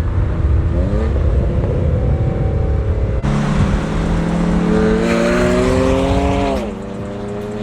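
Car engine being revved in place: a short rise in revs about a second in, then a longer climb in revs that drops sharply back to idle near the end.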